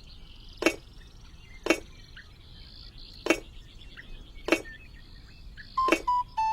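Five sharp knocks of something hard being struck, spaced about a second or more apart, over a faint high chirping of insects. A few musical notes come in near the end.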